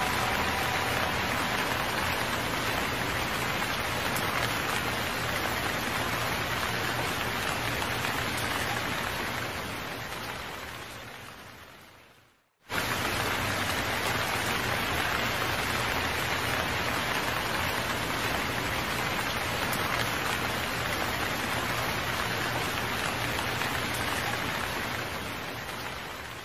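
Steady, heavy rain. It fades out about ten seconds in to a brief silence, then starts again abruptly and fades away near the end.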